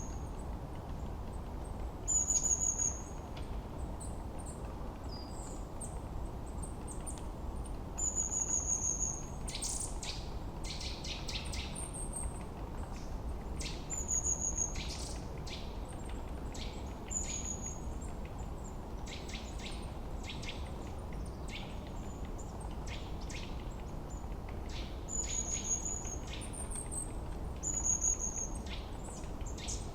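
Forest birds singing: a short, high, clear whistle repeats every two to three seconds, and a bird adds fast runs of sharp chirps through the middle. Underneath is a steady low rush of wind.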